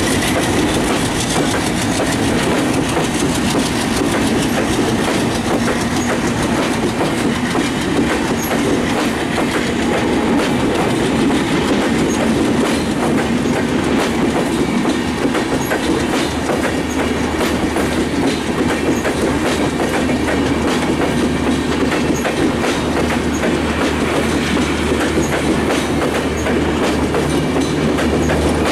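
Broad-gauge LHB passenger coaches rolling past close by, their wheels clattering steadily over the rails. A steady low hum joins about halfway through.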